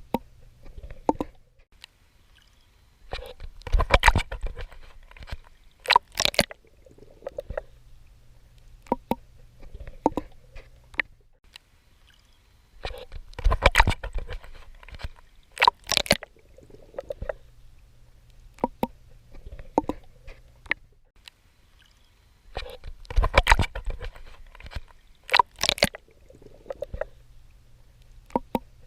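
Swimming in water: clusters of splashes and sloshing from strokes, with sharp crackles in between over a faint low hum. The same sequence comes round about every ten seconds.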